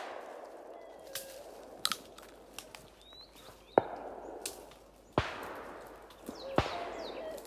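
Three shotgun shots about a second and a half apart, each followed by a long fading echo, with birds calling faintly in between.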